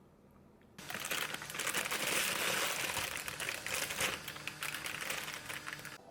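Dense crinkling, crackling noise made of many small clicks, starting abruptly about a second in and cutting off suddenly near the end.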